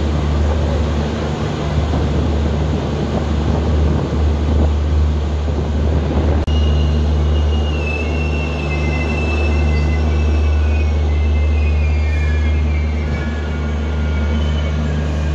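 Double-decker express coach running on rails, heard from its open doorway: a steady low rumble and rushing noise of wheels on track. About six seconds in, a thin, wavering high-pitched wheel squeal begins and continues to the end.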